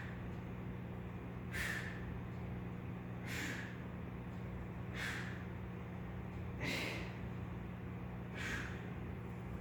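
A man breathing hard from exertion: five sharp, forceful exhales about every 1.7 seconds, over a steady low hum.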